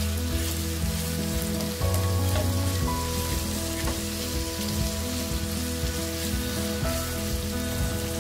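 Sliced onions sizzling steadily in hot oil in a pan.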